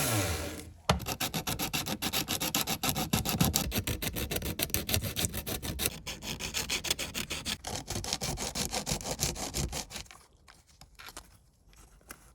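A power tool winding down, then rapid, even back-and-forth hand-rubbing strokes on a surface, several a second, which stop about ten seconds in.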